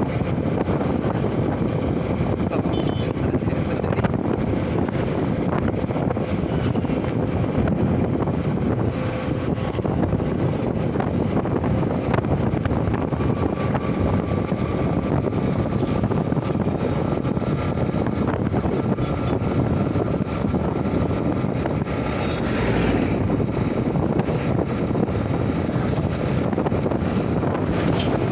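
Honda Shine SP 125 motorcycle on the move, its single-cylinder engine running steadily under wind rushing over the microphone.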